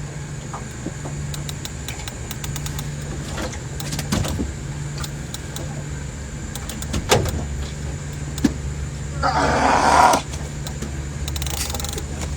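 A low, steady motor hum with scattered clicks and knocks, and a short, louder noisy burst about nine seconds in.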